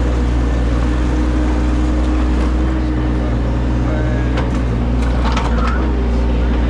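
An engine running steadily under load, with a few short clanks or scrapes about four to six seconds in.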